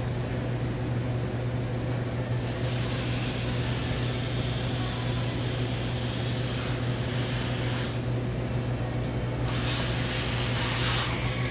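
Suction hose of a grease-trap vacuum truck hissing as it draws air, over a steady low hum. The hiss comes in about two and a half seconds in, drops away briefly around eight seconds, then returns.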